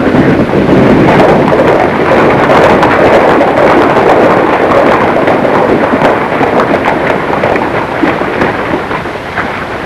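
A dense clattering rumble of many horses' hooves and wagon wheels, loud at first and easing off toward the end.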